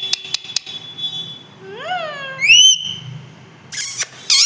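Pet parrot calling: a few sharp clicks, then a whistled call that rises and falls, and a loud rising whistle about halfway. Two harsh screeches follow near the end.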